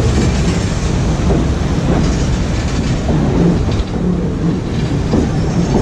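Passenger train of the White Pass & Yukon Route railway running, heard from aboard: a steady low rumble with irregular clatter of the wheels on the rails.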